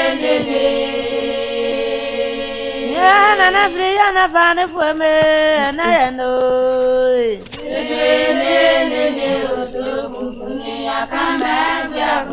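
Background music of a choir singing long held notes, with a brief break about seven and a half seconds in.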